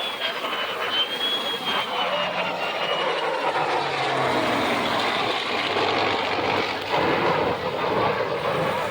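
P-51 Mustang's V-12 piston engine and F-35 Lightning's jet engine flying past together in formation. The noise builds over the first second and stays loud, with a high wavering whine early on and pitches sliding down in the second half as the aircraft pass.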